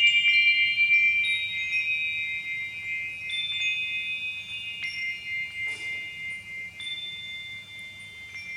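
Wind chimes ringing: overlapping high, clear tones, with a new note struck every second or two, each left to ring out, the whole slowly dying away.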